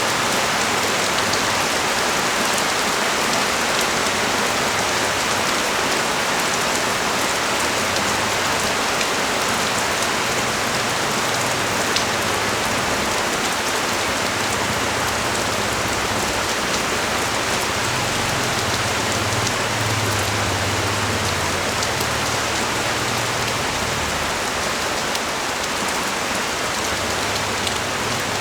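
Steady rain falling in a dense, even hiss, with a low rumble swelling and fading in the middle and a single sharp tick about twelve seconds in.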